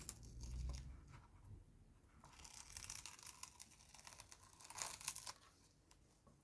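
Faint scratchy rustling and tearing of paper being handled, starting about two seconds in and growing louder before stopping near the end.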